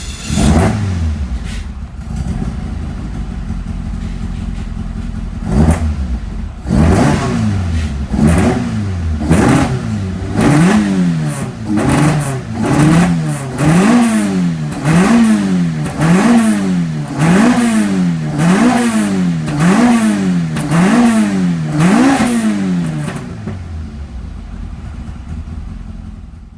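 Toyota 4A-G twin-cam four-cylinder with high-lift cams and individual throttle bodies, idling and being revved by hand. There is a quick blip near the start and another about six seconds in, then a long run of even rising-and-falling blips, about one every 1.2 seconds, before it settles back to idle. The engine pulls cleanly, in the seller's words running well with no particular problems.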